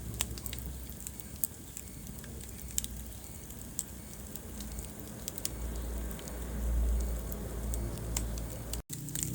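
Wood fire burning in a fireplace: a low, steady rumble of flames with scattered sharp crackles and pops from the burning logs. The sound drops out for a split second near the end.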